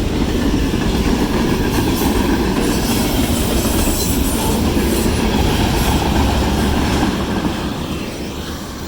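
Locomotive-hauled train passing close by: a steady loud rumble and clatter of wheels on the rails that begins to fade about seven seconds in.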